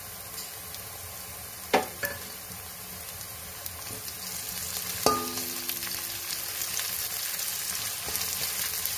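Chopped onions and green chillies sizzling in hot oil in a kadai, with a steady hiss. A metal spatula knocks against the pan twice, the second time with a brief metallic ring, and the frying gets a little louder once the stirring starts about five seconds in.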